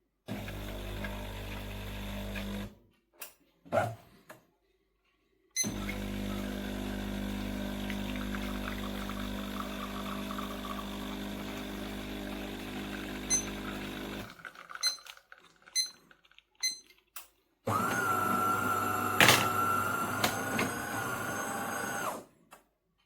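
Bean-to-cup coffee machine running through its cycle in stages: a steady motor hum for about two seconds, then after a pause a longer hum of about eight seconds, a few clicks, and near the end a louder, higher whine lasting about four seconds that stops suddenly.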